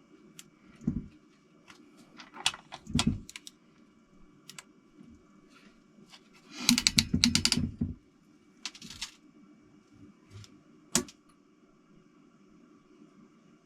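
Ratchet wrench clicking as bolts on a Toyota 4A-GE engine are turned an additional 90 degrees: scattered clicks and knocks of tool handling, with a quick run of rapid ratchet clicks, the loudest part, about seven seconds in.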